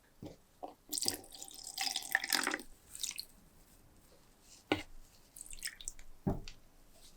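Liquid pouring and dripping in a splashy stretch, with a couple of sharp knocks later on.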